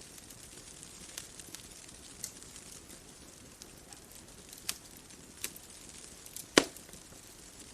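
Bonfire crackling: scattered sharp pops over a soft steady hiss, with one loud pop about six and a half seconds in.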